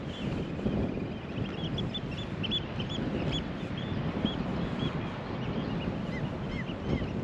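Birds calling with many short, high, repeated notes over a steady rush of wind and sea.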